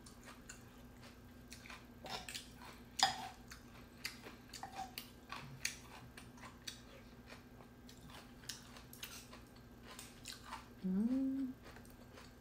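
Close-up mouth sounds of someone eating red bean noodle soup from a spoon: wet chewing and small sharp clicks and smacks scattered irregularly, over a faint steady hum. Near the end a short rising "mm" hum of enjoyment is the loudest sound.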